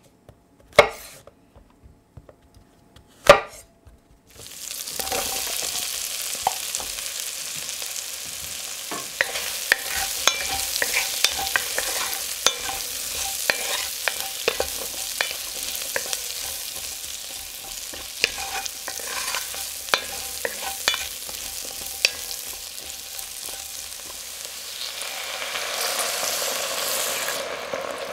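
Two sharp knife chops through chestnut mushrooms on a wooden chopping board. Then, about four seconds in, onion and mushrooms sizzle steadily in an enamelled cast-iron pot while a wooden spatula stirs them with small scraping knocks. Near the end the sizzle swells as red wine is poured in to deglaze.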